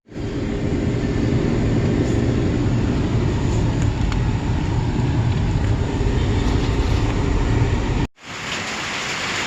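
A loud, steady rumbling hiss that cuts off suddenly about eight seconds in, followed by the lighter, higher hiss of steady rain.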